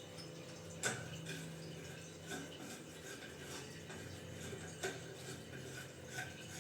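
Light metallic clinks and taps of a wall mixer's fittings being handled and fitted, with two sharper knocks, about a second in and near five seconds in.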